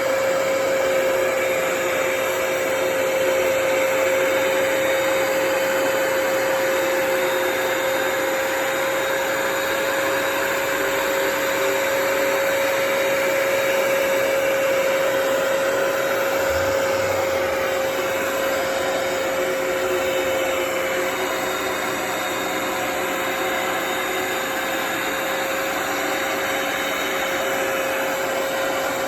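Hoover PowerDash Pet carpet cleaner running steadily, its motor giving one constant whine over an even rushing hiss.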